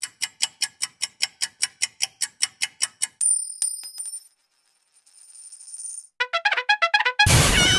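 A string of short stock sound effects one after another: a steady run of quick ticks for about three seconds, a held high chime, a fast run of pitched notes, then a loud crash that rings on near the end.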